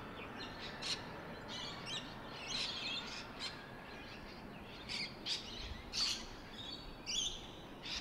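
Birds chirping: short, high calls repeating every second or so over a faint steady background hiss.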